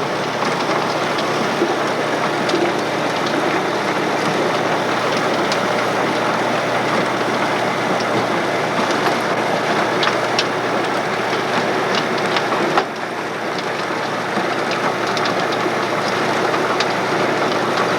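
Farm machinery running steadily: a dense, even mechanical noise with scattered light clicks. About 13 seconds in it cuts and carries on slightly quieter.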